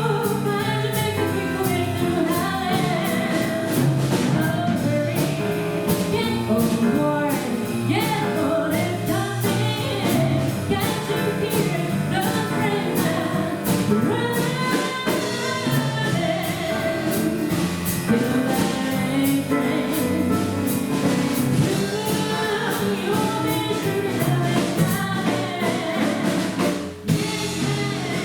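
Live jazz performance: several voices singing over a band, with a drum kit keeping a steady beat of cymbal strokes. The music drops briefly near the end.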